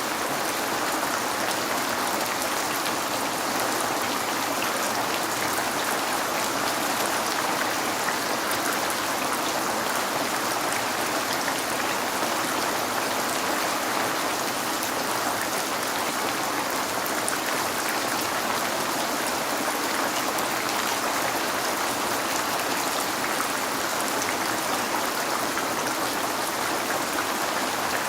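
Steady rain falling on a window: an unbroken hiss with a fine patter of drops that neither builds nor fades.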